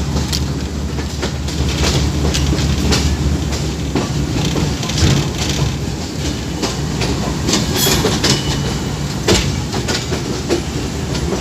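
Passenger train running at speed, its wheels clacking irregularly over rail joints. Under the clacks is a steady low drone from the GEU 20, a GE U20C diesel-electric locomotive, which weakens about four seconds in.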